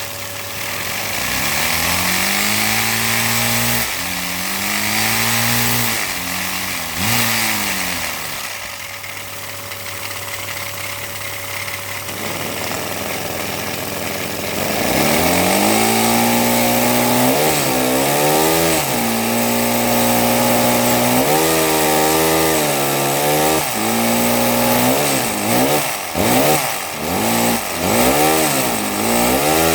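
Lego vacuum-powered inline-two poppet-valve engine running fast with a buzzing brrrr, its pitch rising and dipping again and again as its speed swings. It slows for a few seconds, then picks up to a fast, steady run about halfway through, and near the end its speed surges up and down quickly.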